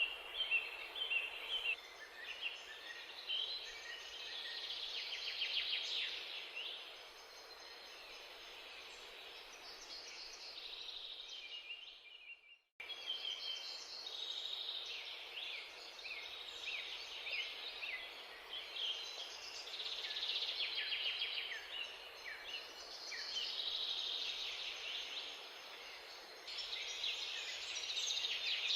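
Many small birds chirping and twittering, a dense chorus of short, quick calls over a faint steady hiss, broken by a sudden brief gap about 13 seconds in.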